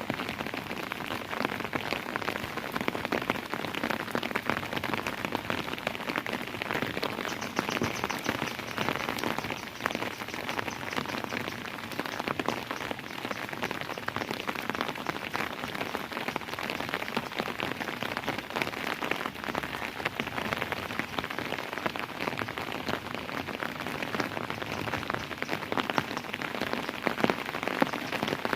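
Steady rain falling, a dense, even sound of countless individual drops striking.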